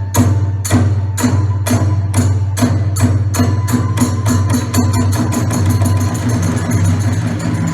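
Kagura hayashi: a large drum and small hand cymbals beating a regular rhythm that speeds up until the strokes run together into a rapid roll.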